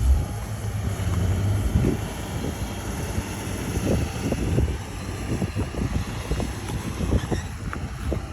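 Heavy diesel earthmoving machinery running steadily, with irregular metallic clanks and knocks throughout.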